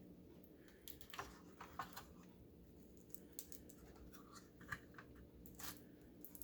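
Faint scattered scratching and clicking as a tool scrapes and peels the adhesive-backed face cover off an oven control panel.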